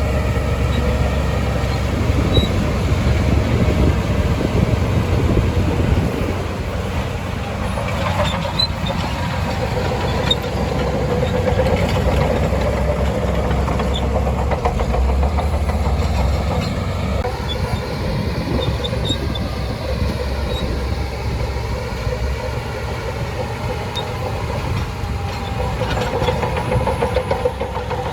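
Shantui DH17C2 crawler bulldozer working: its diesel engine running steadily under load with continuous mechanical clatter, shifting slightly in level and pitch a few times.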